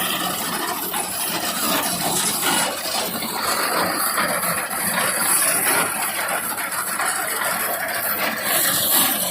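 Tractor-driven reaper binder running in wheat: a steady mechanical clatter and hiss with many fine ticks, with no clear engine note standing out.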